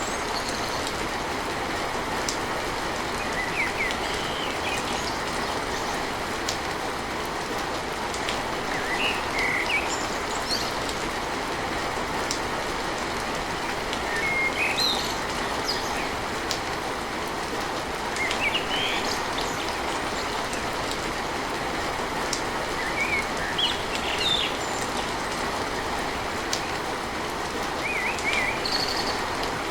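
Steady rain drumming on a tin roof, with brief high bird chirps every few seconds.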